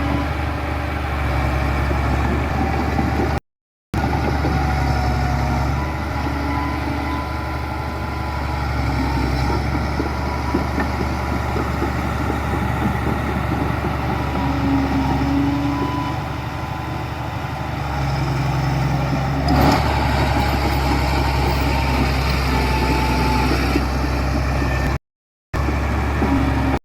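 Diesel engines of heavy construction machinery running steadily, with a single short knock about twenty seconds in. The sound cuts out briefly twice.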